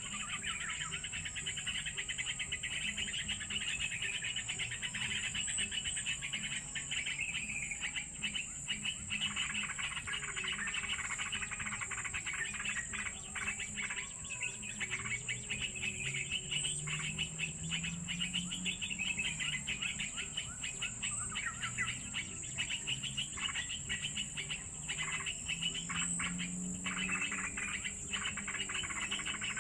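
Dense, continuous bird chirping over a steady high-pitched insect drone.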